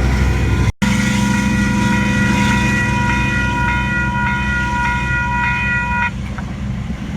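Diesel freight locomotive sounding one long blast on its multi-note chord horn, lasting about five seconds before cutting off, over the steady low running of its diesel engine.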